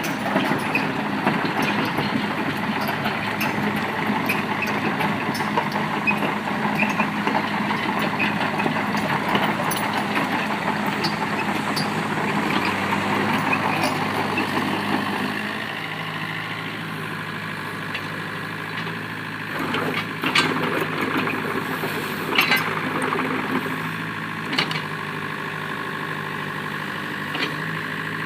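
Mini excavator engine running, busier and louder at first, then settling to a quieter, steady idle about halfway through, with a few clanks near the end.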